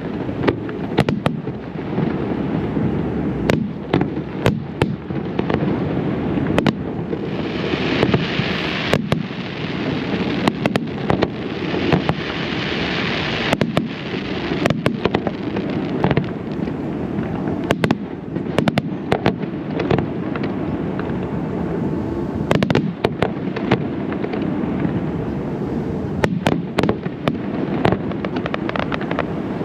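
Aerial fireworks display: a rapid, continuous string of booms and sharp bursts over a rumbling background. There is a stretch of hissing crackle in the middle.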